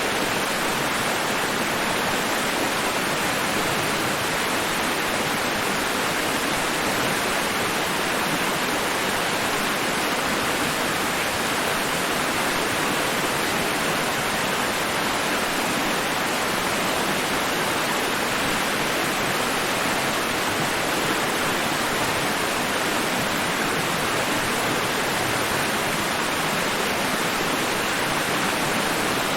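Steady white noise for sleep: an even, unbroken rushing hiss spread across low and high pitches, with no rise and fall of waves.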